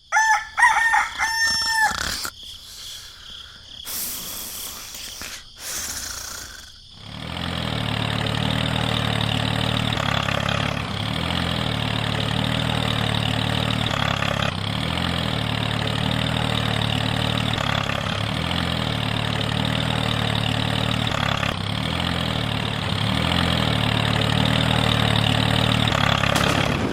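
A rooster crows at the start, followed by a few short knocks. From about seven seconds in, a small engine runs steadily to the end, with a slight rise and fall every few seconds.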